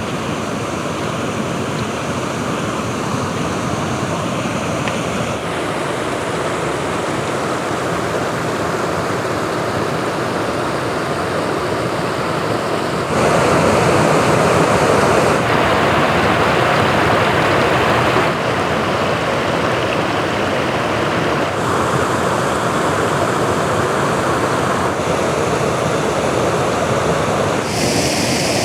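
Mill Hole Falls on Falling Water Creek, a waterfall rushing steadily. The rush shifts abruptly in level and tone several times and is loudest for a few seconds around the middle.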